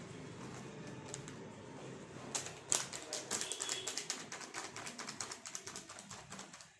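A quick, irregular run of light clicking taps that starts about two seconds in, over a faint steady background.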